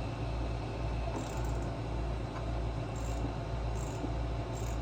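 A steady low hum, with a cricket chirping: a short high chirp repeating about every 0.8 s from about a second in. A few faint clicks.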